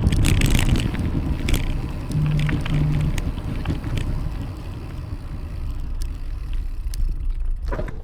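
Wind rumbling on the microphone of a bicycle-mounted camera while riding, with scattered light clicks and two short low hums a little over two seconds in.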